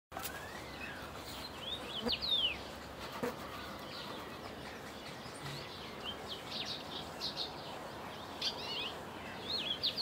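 Small birds chirping and singing: short, quickly gliding whistled notes come in little clusters every second or two, over a steady faint outdoor hiss.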